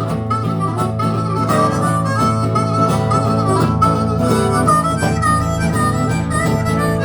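Band music with no singing: a harmonica plays a wavering lead melody over guitar and a steady rhythm, as an instrumental break between sung verses.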